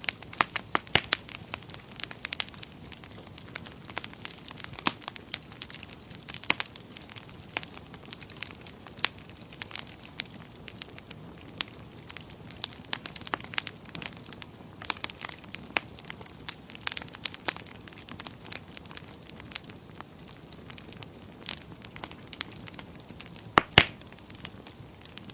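Wood fire crackling in a fireplace: irregular sharp pops and snaps over a soft steady hiss, with a louder double pop near the end.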